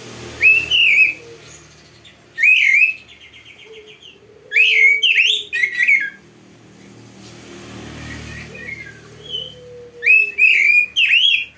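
Oriental magpie-robin (kacer) singing: loud bursts of clear whistled notes that swoop up and down, mixed with quick chattering trills, coming in four bouts with short pauses between them.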